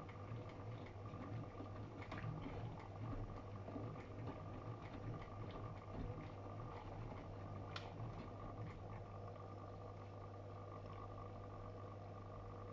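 Matura Sigma 9260 washing machine running: a steady motor hum with water sloshing and pattering in the drum, settling to a smoother hum in the second half.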